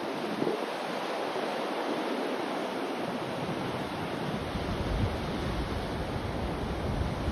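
Steady rushing noise of a white-noise sleep track, close to the sound of surf or wind, with a deep low rumble swelling in about halfway through.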